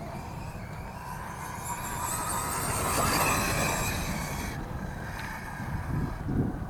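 1/8-scale RC truck's Castle brushless motor and Mamba X ESC whining under throttle. The pitch rises to a peak about three seconds in and cuts off suddenly a second or so later, over a low rumble of the tyres on the ground.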